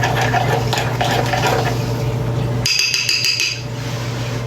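A spoon stirring and scraping a thick, creamy dressing around a bowl, over a steady low hum. About two and a half seconds in the stirring stops and a short, ringing clink follows.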